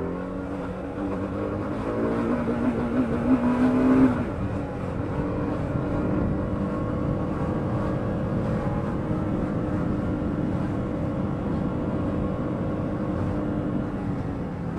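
Yamaha YBR125's single-cylinder four-stroke engine pulling under acceleration, rising in pitch and getting louder, then dropping sharply about four seconds in and running on at a steady, even pitch.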